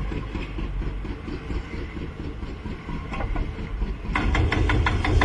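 A heavy vehicle running with a steady low rumble. About four seconds in it grows louder, with a rapid, even clatter of clicks.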